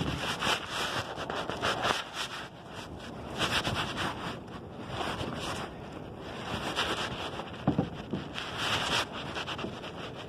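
Wind buffeting the microphone over open water, rising and falling in uneven gusts, with a short knock about three-quarters of the way through.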